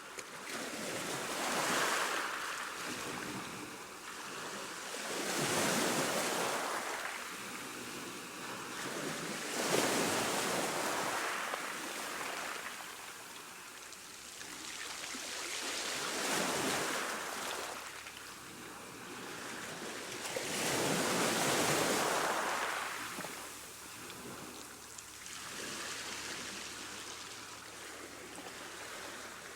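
Ocean waves breaking and washing in, a steady rush of surf that swells and ebbs in about six surges, one every four to six seconds.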